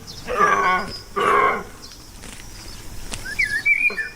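A farm animal calling twice in quick succession, each call about half a second long, followed by a short high chirp near the end.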